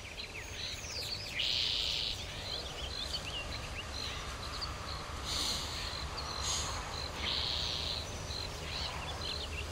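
Outdoor ambience of small birds chirping, with many short twittering calls and three brief buzzy trills, over a steady low hum.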